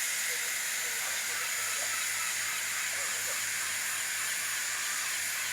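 Steam locomotive hissing steadily as steam escapes.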